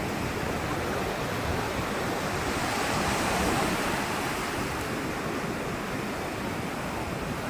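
Sea waves washing on the shore, a steady rush that swells a little about three seconds in.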